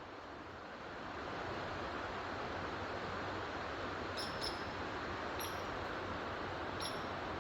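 Steady rushing outdoor noise that grows louder about a second in, with four short, high chirps from a small bird in the second half.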